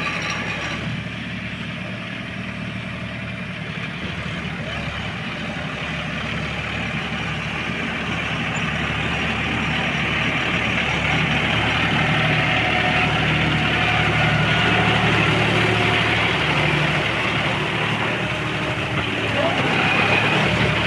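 John Deere 5210 tractor's three-cylinder diesel engine running steadily, growing gradually louder over the first half or so, with a brief dip near the end.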